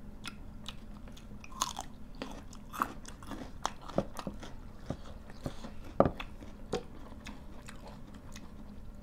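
People chewing food close to the microphone, with irregular short clicks of mouth and teeth, the sharpest about six seconds in.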